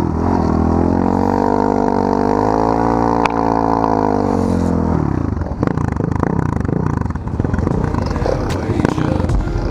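Small off-road vehicle engine revving: the pitch climbs, holds for a few seconds and falls back about five seconds in, then the engine runs unevenly with changing revs and some knocks.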